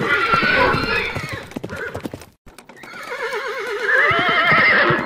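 Horse whinnying twice, each a long wavering neigh, with a short break between them. Hooves clip-clop throughout.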